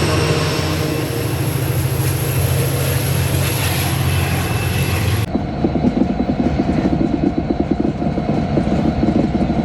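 Diesel locomotive running with a steady low engine drone. It cuts off abruptly about five seconds in to a fast, throbbing low rumble of a train.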